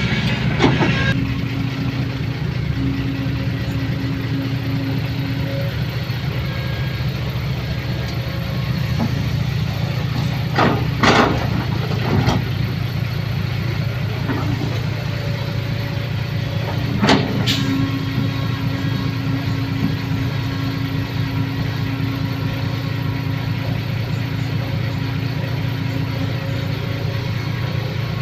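A vehicle engine running steadily, with a few short knocks, the clearest around 11 and 17 seconds in.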